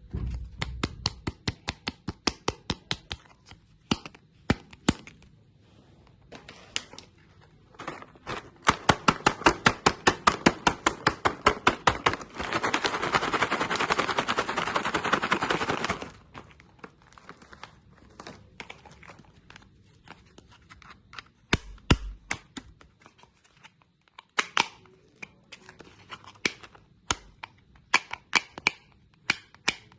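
Hard candy crunching and cracking in sharp snaps, with fast runs of snaps and a few seconds of dense continuous crunching in the middle.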